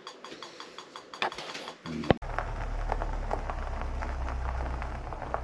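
Water dripping fast and evenly from a leaking RV rooftop air conditioner, about five drips a second. About two seconds in, it cuts abruptly to a steady low hum with scattered, irregular drips.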